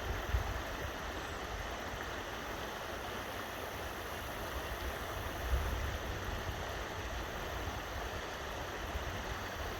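Creek water rushing steadily, with an uneven low rumble underneath.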